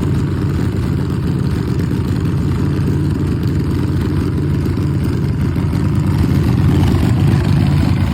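Motorcycle V-twin engine running steadily at idle, slightly louder near the end; likely the 2010 Victory Vegas's 100 cubic inch Freedom V-twin.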